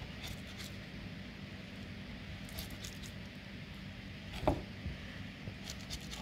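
Rice crisping in a frying pan: faint scattered crackles over a steady low hum, with one knock about four and a half seconds in.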